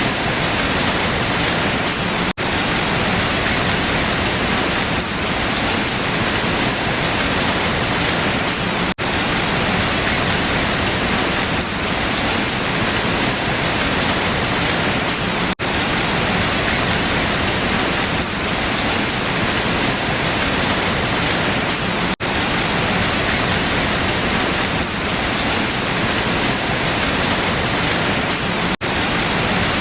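Steady, dense rain falling on leaves, an even hiss of many drops. The sound drops out for an instant about every six and a half seconds.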